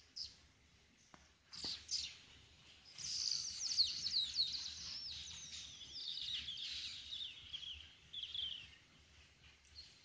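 Small birds chirping: a rapid twittering of short, high, falling chirps that starts about a second and a half in and thins out near the end.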